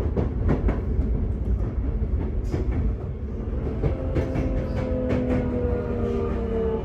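Running noise heard inside a Sotetsu 8000-series motor car (equipment-renewed set), with sharp wheel clicks over rail joints. About four seconds in, the inverter and traction-motor whine sets in and slowly falls in pitch as the train decelerates on the approach to a station.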